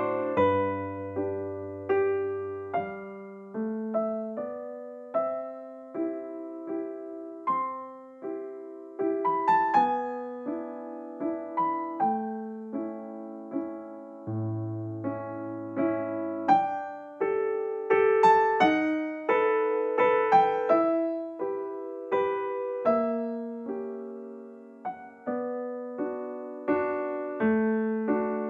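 Soft background piano music: slow, gentle melody of single struck notes over held bass notes.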